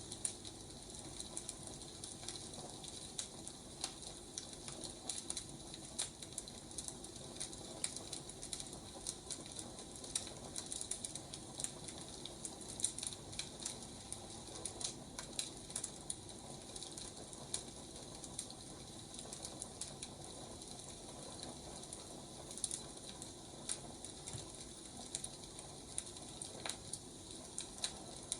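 Burning firewood crackling: irregular sharp pops and crackles over a steady hiss.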